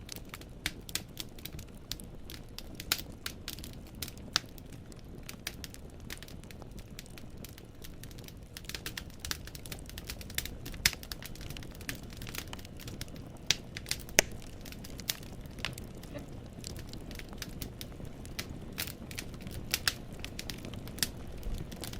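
Wood fire burning in a fireplace: logs crackling and popping with irregular sharp snaps over a low, steady rumble of the flames.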